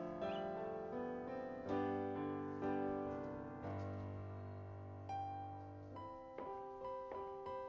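Slow, gentle solo piano music: single notes and chords struck and left to ring out and fade.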